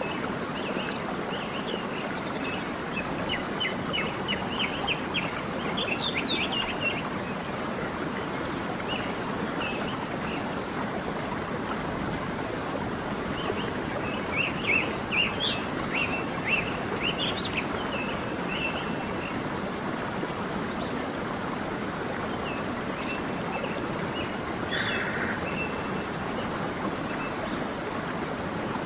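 A stream running steadily, with small birds chirping in quick high series over it: two bouts of rapid chirps, then scattered single calls near the end.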